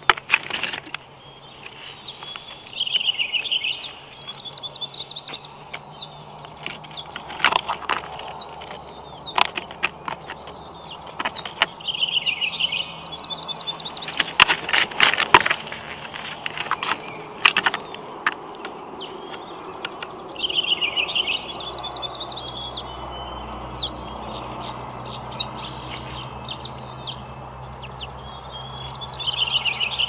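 A small songbird singing the same short song four times, about every nine seconds, over knocks and rustling as a bald eagle shifts sticks and brushes its feathers in the nest close to the microphone. The densest run of knocks comes about halfway through.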